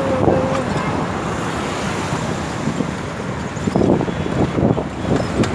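Road traffic noise with wind on the microphone, heard from a moving bicycle.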